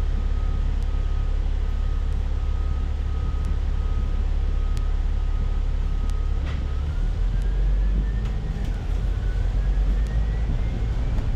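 Bus heard from inside, its engine and drivetrain rumbling low, with a short tone repeating about twice a second until about halfway. Then a click, and a whine rising steadily in pitch as the bus pulls away and picks up speed.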